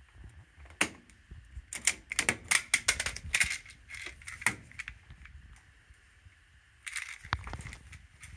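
Irregular sharp clicks and clatter: a single click about a second in, a quick cluster of them over the next few seconds, and another brief burst near the end.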